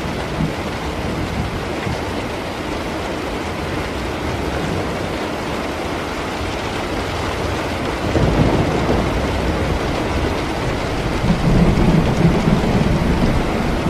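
Steady rain, with rolling thunder that swells about eight seconds in and rumbles on louder near the end.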